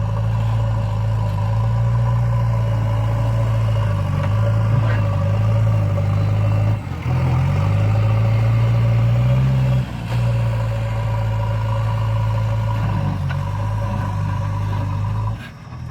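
Heavy diesel engine running steadily, with two brief dips about seven and ten seconds in and a slight rise in pitch between them; the sound drops away just before the end.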